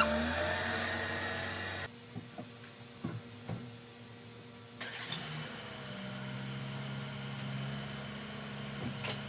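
A car engine running at idle, with a few sharp clicks and knocks partway through.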